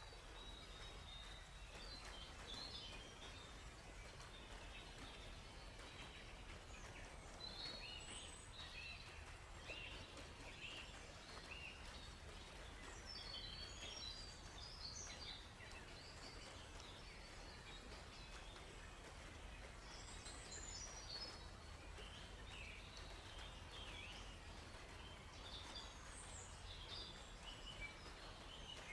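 Forest birds chirping and twittering in scattered short phrases, several voices overlapping, over a faint steady background hiss and low rumble.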